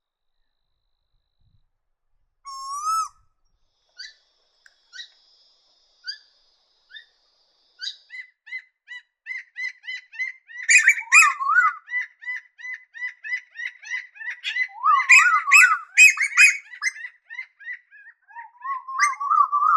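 Eastern koel calling: one rising whistled note, then a long series of short clipped notes that speeds up and grows louder into a rapid, excited run of rising calls.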